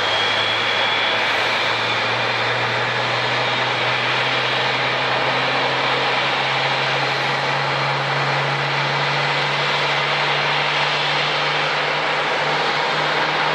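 Jet airliner engines running with a steady, loud rush and a low hum that slowly rises in pitch.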